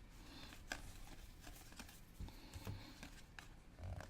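Faint handling of trading cards: soft rustles and several short, sharp clicks as cards are flipped through and laid down, with a couple of dull low thumps.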